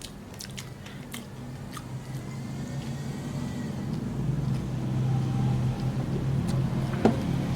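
A person chewing a crunchy dried fish, with scattered sharp crunches, over a low steady hum that slowly grows louder; a single sharp knock comes near the end.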